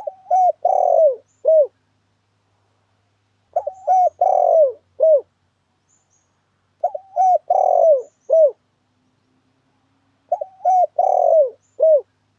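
Spotted dove (tekukur) cooing, a lure call looped four times about every three and a half seconds. Each phrase is a couple of quick coos, a longer falling coo and a short final note.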